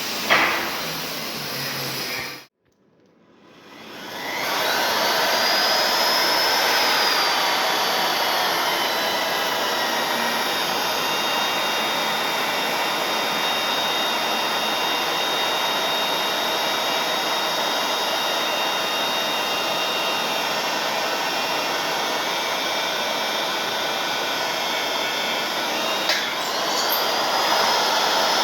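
Electric magnetic-base drill motor spinning up to a high steady whine, the pitch settling a little lower as the cutter works into the steel. Near the end a click, and the whine rises again.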